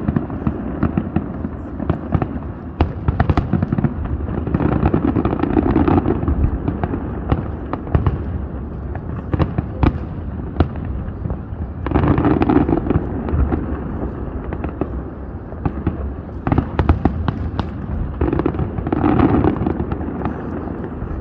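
Fireworks display: a steady run of booms and sharp crackling bangs, with heavier clusters of rumbling bursts about five, twelve and nineteen seconds in.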